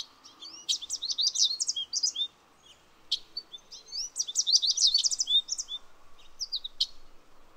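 Small songbird singing: two fast runs of high chirps and twitters, the second starting about three seconds after the first, with a few single chirps between and after.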